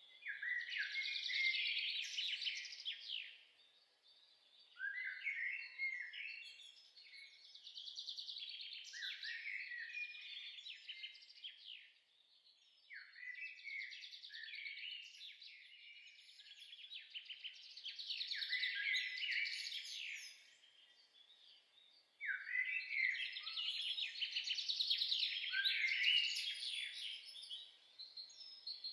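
A songbird singing long, rapid, varied warbling phrases in four bursts separated by short pauses.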